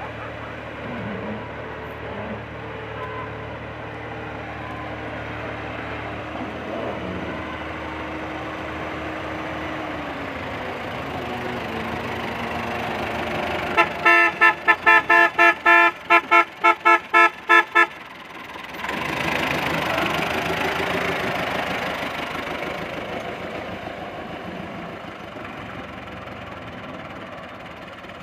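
A vehicle engine running steadily, then a rapid string of about ten loud horn toots lasting about four seconds, followed by a rising and fading rush of vehicle noise.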